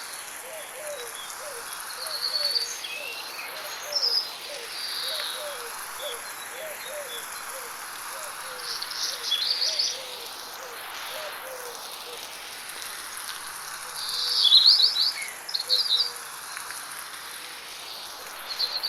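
Birds chirping over light rain in a forest, in short bursts of high notes, loudest about three-quarters of the way in. A low short call repeats about two or three times a second through the first part, and insects buzz steadily. The whole soundscape is panned around the listener by 8D processing.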